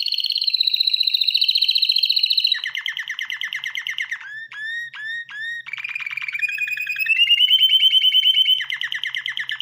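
Canary singing a long song of rapid rolling trills, each held at a steady pitch. A run of short upward-sweeping chirps comes about halfway through, followed by a trill that steps up in pitch and gets louder.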